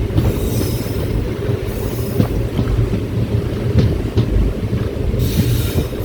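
Passenger train coaches rolling along the track: a steady low rumble with scattered wheel clicks, and a burst of hiss near the end.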